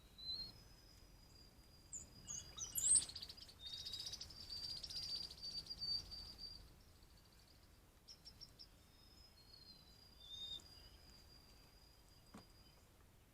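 Wild birds chirping and calling, with short high chirps, a trilled call in the first half, and long thin high notes.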